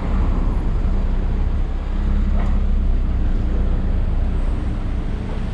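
Road traffic: a steady low rumble of vehicle engines and tyres.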